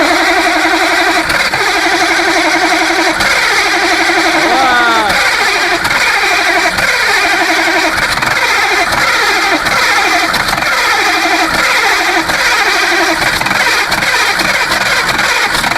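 Engine running loudly just after a cold start in frost, its note wavering in repeated falling sweeps.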